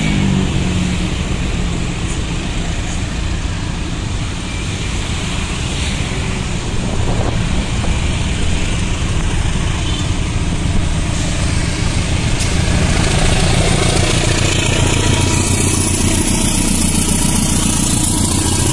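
Trains running past on the tracks: a JR 205 series electric commuter train, then a KAI diesel-electric locomotive hauling passenger coaches. The locomotive's engine rumble and wheel noise grow louder over the last third as it comes close.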